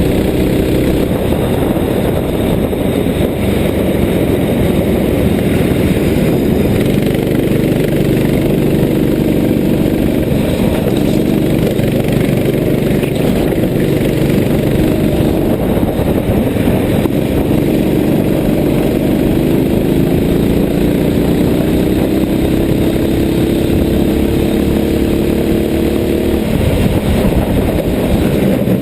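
Racing kart's small engine running hard on track. Its pitch climbs gradually for several seconds late on, then drops suddenly as the throttle comes off.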